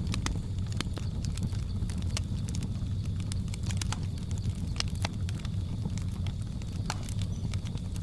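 Wood fire crackling: irregular sharp pops and snaps, several a second at times, over a steady low rumble, with a faint steady high hum underneath.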